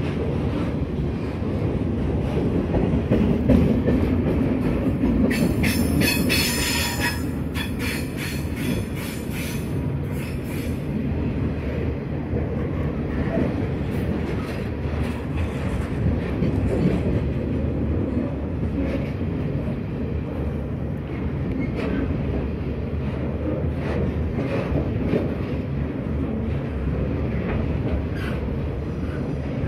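Container freight train's wagons rolling steadily past at close range with a continuous low rumble. A stretch of higher, sharper wheel noise and clicks comes in about five to eleven seconds in.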